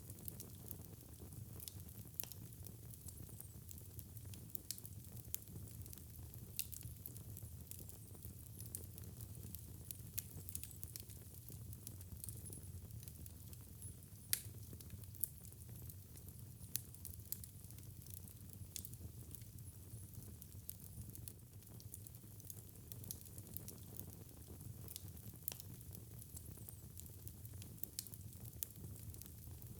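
Fireplace fire crackling, with frequent small sharp pops over a low steady rumble; one louder pop about halfway through.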